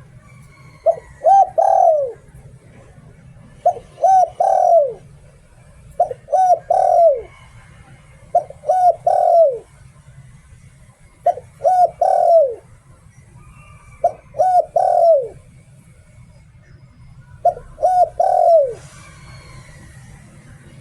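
Spotted dove cooing in the "liu tan" song style: seven phrases about every two and a half seconds, each two short notes and then a longer falling note.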